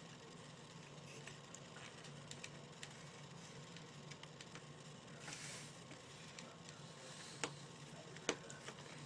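Plastic parts of a UA-937 Magnum airsoft gun being handled and slid together: faint scattered ticks, a brief scrape about five seconds in, and two sharper clicks near the end as the back plate is worked into place.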